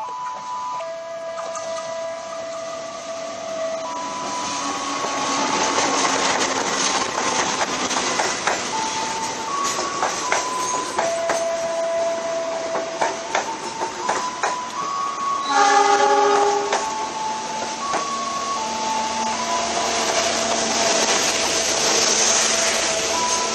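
Passenger train running past close along a station platform: the locomotive comes up, then the coaches roll by with a rapid clatter of wheels over rail joints. A short horn blast sounds about two-thirds of the way through.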